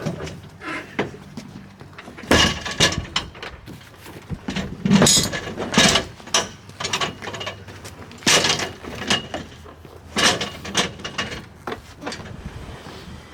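Irregular clunks, clicks and scrapes of hands and tools working hardware on a plastic fishing kayak during a fish-finder installation, with about half a dozen louder knocks spread through.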